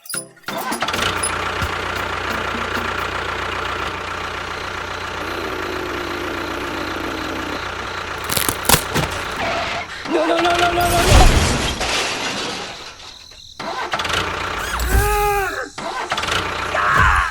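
A small engine running steadily, then dropping off and picking up again, with short pitched sounds about ten seconds in and a tone that glides up and down about fifteen seconds in.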